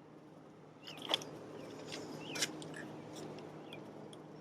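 A few faint clicks, such as small parts being handled, over a low steady hum, with small birds chirping briefly in the background.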